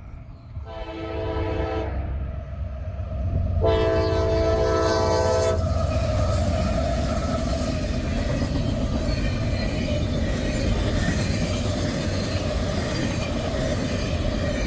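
Locomotive horn sounds a short blast and then a longer one about two seconds later. The train then passes close by with a loud, steady rumble.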